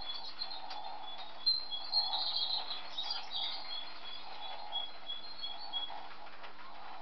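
Bird chirping: a run of short, high chirps and twitters, busiest in the middle, over a steady low hum.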